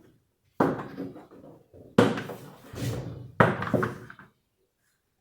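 Plastic tub ring of an Electrolux LTE12 top-loading washing machine being pulled off its clips: three sharp clunks about a second and a half apart, each trailing off briefly.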